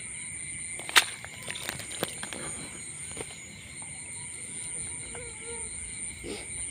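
A few sharp clicks and knocks, the loudest about a second in, over a steady high-pitched hum.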